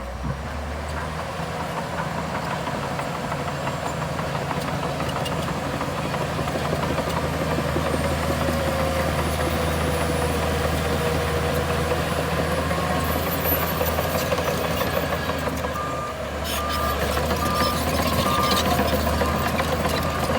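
Heavy diesel engine of earthmoving equipment running steadily. A reversing alarm beeps about twice a second in the last few seconds.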